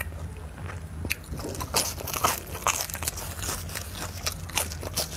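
Close-up biting and chewing of glazed meat: runs of short, sharp crunchy clicks from the mouth, starting about a second in and coming thickest in the middle and near the end, over a faint steady low hum.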